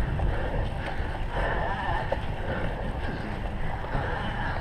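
Wind rushing over the microphone with the steady rumble and rattle of a cyclocross bike riding over rough ground.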